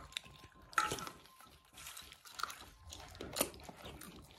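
A few faint, scattered clicks and crunches of people eating popcorn from a bowl, three of them sharper, about a second or so apart.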